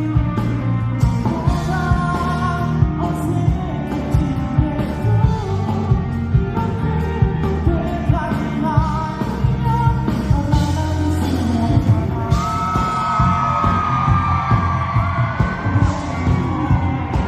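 Pop-rock band playing with lead vocals over drums, bass and guitar, with a steady beat. About two-thirds of the way through, a long note is held and slides slightly down.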